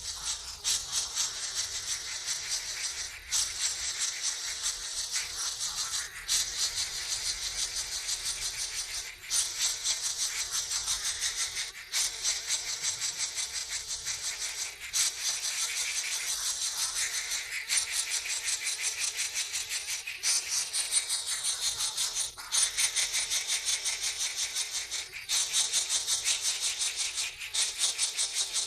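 Nestling birds begging for food: a rapid, harsh, rattling chatter that breaks off briefly every few seconds and starts again.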